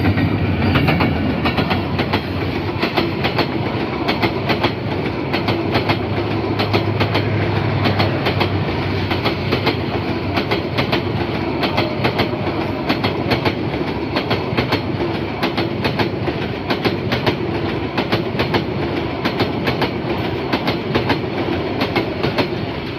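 Dhaka Express passenger train running at speed, its wheels clattering rapidly and steadily over the rail joints over a constant rumble.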